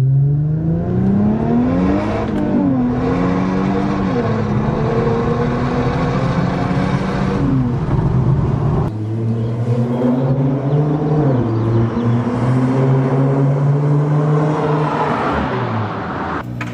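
Infiniti Q50 3.0T's twin-turbo V6 running through a custom 2.5-inch straight-through catback exhaust with a single mid-pipe resonator. The engine pitch climbs over the first couple of seconds, falls back and settles into steady running. About nine seconds in there is an abrupt change, then steady running again, with small rises and dips near the end.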